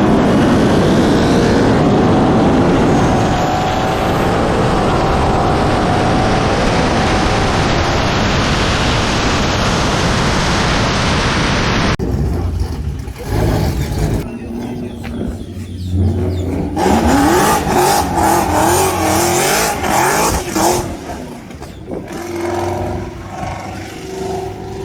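A built single-turbo 2JZ Toyota Supra and a Paxton-supercharged 5.0 Mustang accelerating flat out in a roll race, engines at full throttle under heavy wind rush, their pitch climbing through the gears. About halfway through, the sound cuts to a quieter shot with engine revs rising in steps.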